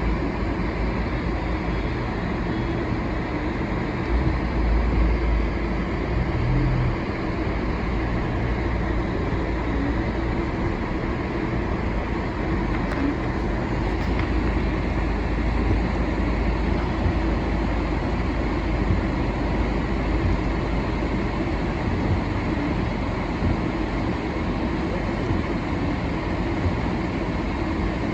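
Steady engine and road noise heard from inside a moving vehicle, with a low rumble that swells a little now and then.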